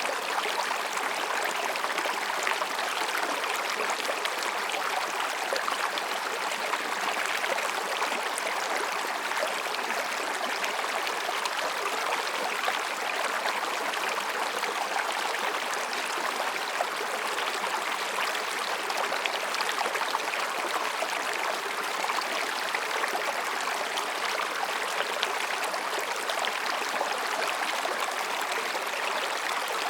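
Mountain stream babbling over and between rocks, a steady, even rush of water.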